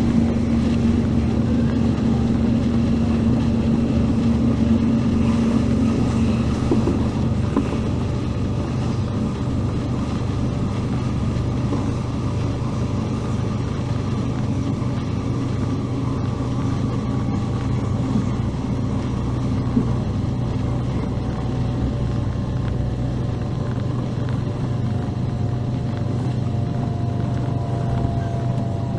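Korean-built MTR Tung Chung Line K-Train heard from on board while running: a steady rumble of wheels on rail and traction equipment with a low hum. Near the end a faint tone slowly falls in pitch.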